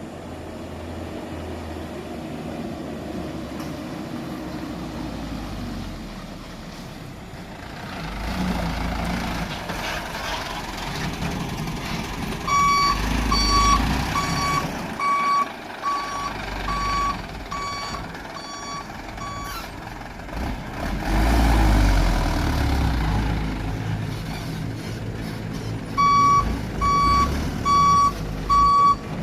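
Dump truck engine running, with a couple of swells in engine noise, and its reversing beeper sounding a little more than once a second in two spells as it backs up.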